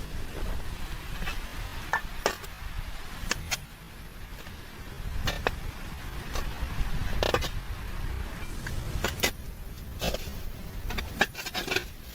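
Wind rumbling on the microphone, with scattered sharp clicks and knocks at irregular intervals.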